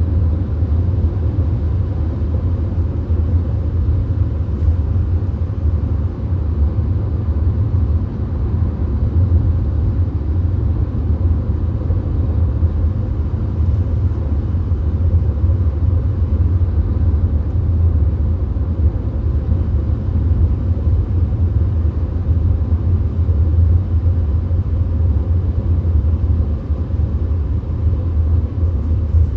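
VW Golf cruising on the motorway: a steady low road-and-engine rumble with even tyre and wind noise and no change in speed.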